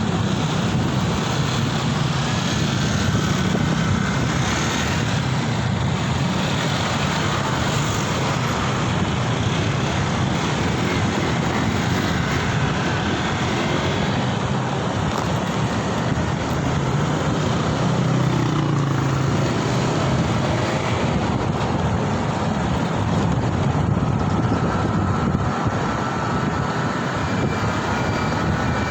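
Steady wind rush and city traffic noise heard while riding, with the most weight in a low rumble and no clear single event. Faint pitched tones come in near the end.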